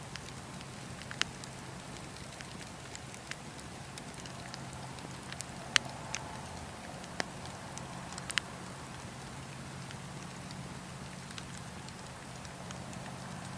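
Wood campfire crackling: scattered sharp pops and snaps, about eight of them, the loudest about six seconds in, over a steady low rumble.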